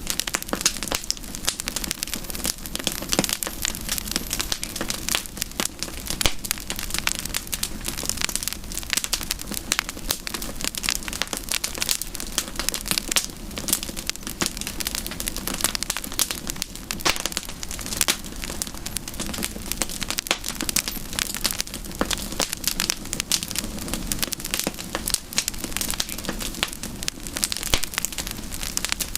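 Wood campfire burning with continuous irregular crackling and popping over a steady low hiss.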